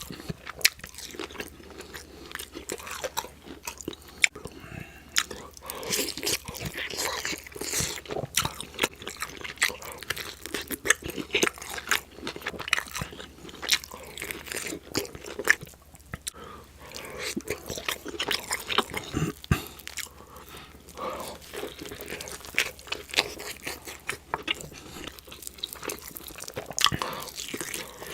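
Close-miked mukbang eating: a person taking big bites and chewing, with a continual run of wet crunching and crackling.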